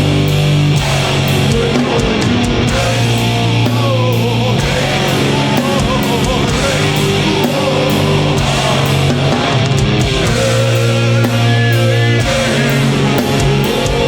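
Live heavy metal band playing loud and without a break: distorted electric guitars and bass changing notes every second or two over pounding drums, heard through a concert PA.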